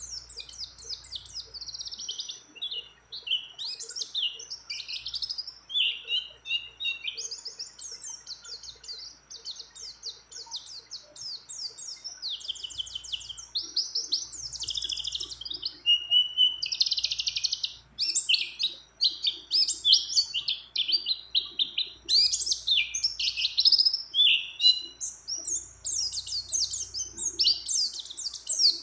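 White-eye (pleci) singing a long, fast, unbroken song of rapid chirps and trills, laced with phrases copied from other birds.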